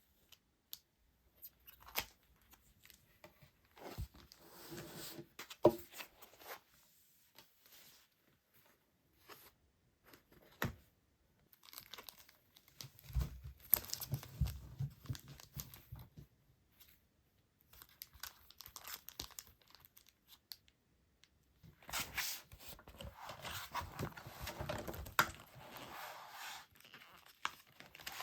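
Packaging being handled, crinkled and torn open by hand in several bursts, with sharp taps and clicks in between.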